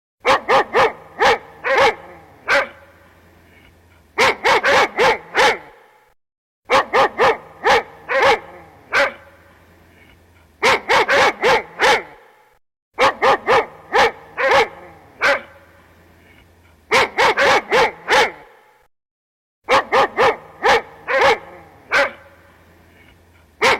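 Dog barking in repeated runs of four or five quick barks, with short pauses between the runs.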